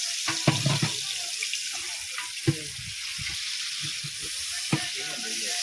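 Food sizzling and frying in a cooking pot, a steady hiss, with a few scattered knocks of stirring.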